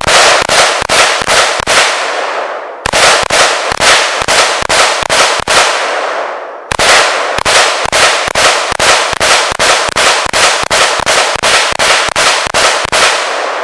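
Rapid semi-automatic rifle fire: sharp shots about three to four a second, in three long strings, until the magazine runs empty.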